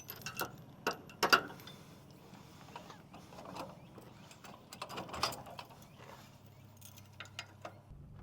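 Irregular mechanical clicks and clanks, loudest a little after a second in and again about five seconds in.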